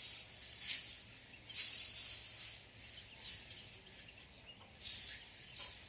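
Pork skin being singed to burn off its bristles: repeated short bursts of sizzling and crackling.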